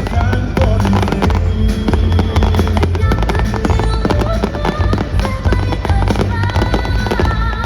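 Fireworks going off in a dense, rapid series of bangs and crackles, with music playing along.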